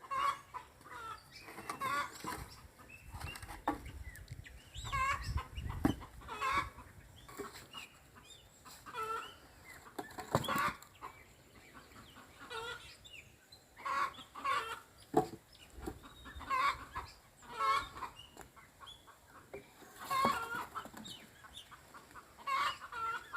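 Chickens clucking over and over, short calls close together, with a few knocks of firewood being handled and laid down, the clearest about six and ten seconds in.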